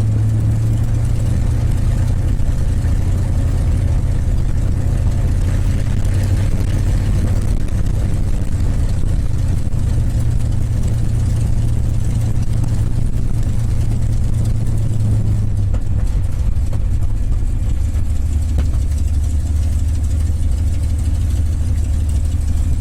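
North American P-51 Mustang's Merlin V-12 engine running at low taxi power, a steady deep drone that drops a little in pitch about two-thirds of the way through.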